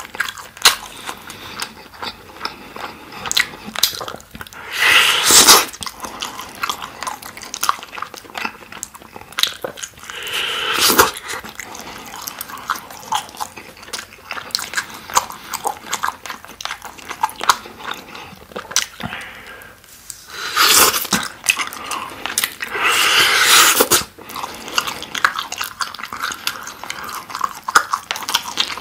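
Close-miked chewing of sauce-glazed grilled chicken skewer meat: wet smacking and many small clicks, with four louder, longer bites as meat is pulled off the bamboo skewer.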